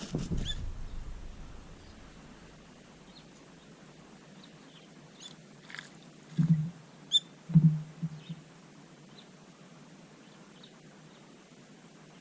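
Small garden birds giving short, high chirps at intervals. A low rumbling thump at the very start and a few loud, short low thumps around the middle are the loudest sounds.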